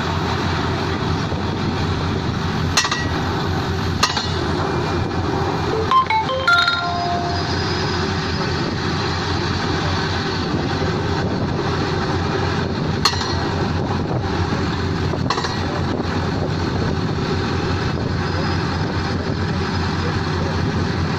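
Pneumatic drilling rig running steadily, with a few sharp metallic clinks about three, four, six and thirteen seconds in.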